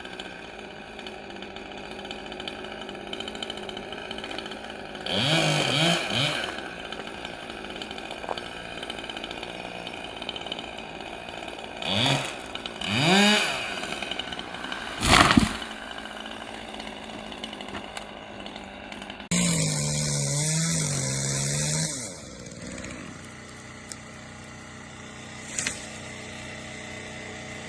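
Chainsaw blipped a few times, its pitch rising with each rev. About halfway through there is a short, loud, sudden sound, and later a couple of seconds of steady running at high revs as it cuts.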